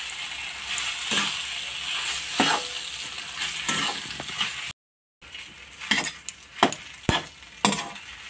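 Semolina and coconut frying in ghee in a kadhai: a steady sizzle, with a spatula scraping across the pan about once a second. The sound drops out briefly a little after halfway, then returns quieter with quicker scrapes and clinks.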